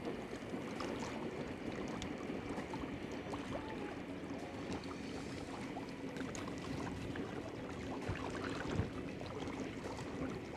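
EMD diesel-electric locomotives idling at a stop: a steady low hum under a noisy hiss, with scattered small clicks and one short knock near the end.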